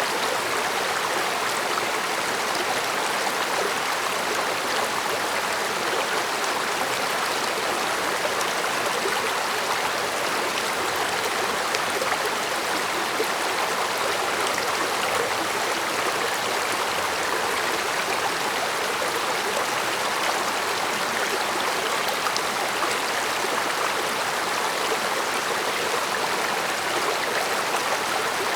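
A mountain stream flowing over rocks: a steady rushing and babbling of water, even throughout.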